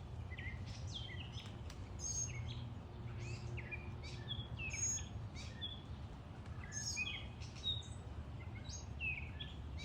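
Backyard songbirds chirping and calling, many short notes in quick succession, over a steady low background rumble.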